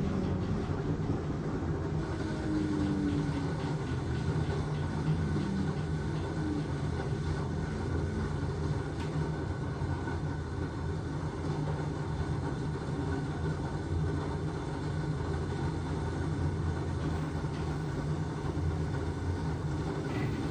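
LG washing machine running with a steady mechanical hum and drone; a higher motor tone glides and settles during the first few seconds.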